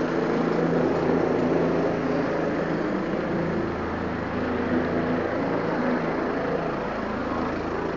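Taxi engine and road noise heard from inside the moving vehicle, a steady drone.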